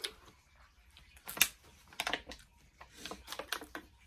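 A person chewing a mouthful of taco: irregular wet mouth clicks and smacks, the loudest one about a second and a half in.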